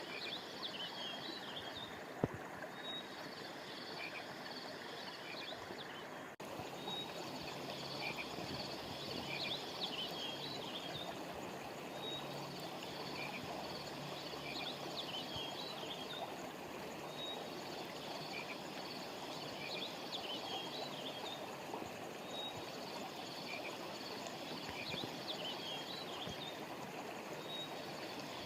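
Steady rush of a flowing stream, with clusters of high chirping calls repeating every few seconds over it. A single sharp click comes about two seconds in.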